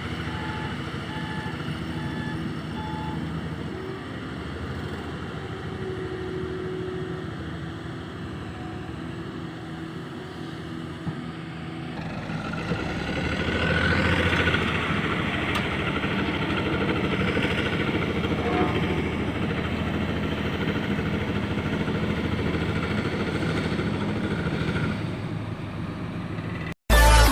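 Diesel dump truck engine running, growing louder and harsher about halfway through as it works under a full load of soil. A short beep repeats about twice a second in the first few seconds.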